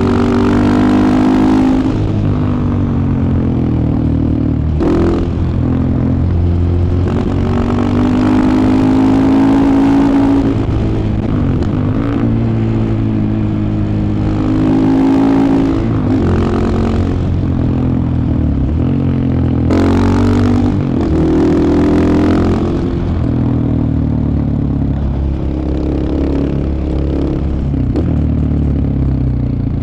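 2015 KTM 690 Enduro R's single-cylinder engine under way, its pitch climbing and dropping again and again as the bike accelerates and slows, with short breaks between pulls.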